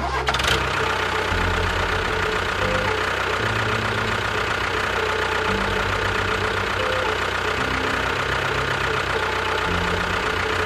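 A steady engine-like drone runs under background music with a bass line that steps between notes about once a second.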